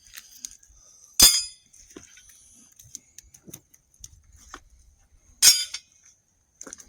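Two sharp, clanking impacts about four seconds apart, with small knocks between them, as weights are set down on the covers of compost bins.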